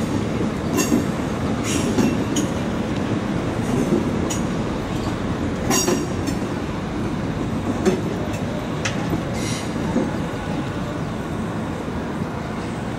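A red DB regional electric train rolling through the station: a steady rumble of wheels on track, broken by sharp clicks and short high wheel squeals every second or two, easing off slightly near the end.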